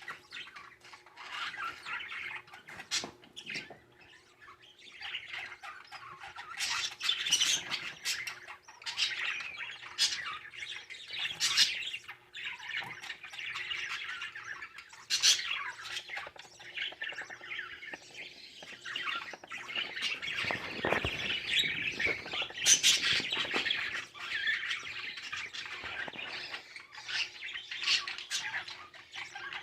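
A baby budgie's begging chirps and squawks as its father feeds it in the nest, irregular and almost continuous, with frequent short sharp clicks.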